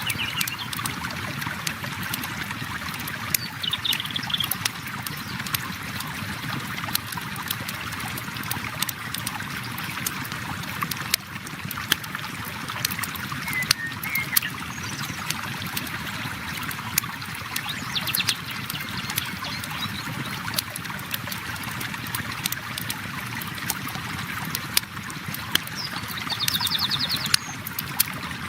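River water flowing steadily, mixed with a campfire crackling in sharp, irregular pops.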